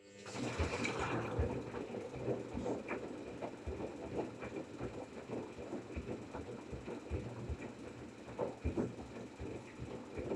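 LG 5 kg washing machine running, a steady motor hum with irregular knocking and rattling throughout.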